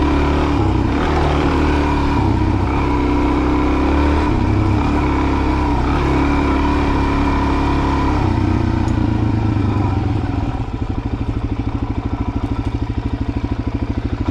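Motorcycle engine running as the bike is ridden, then settling to a steady, even idle about ten seconds in.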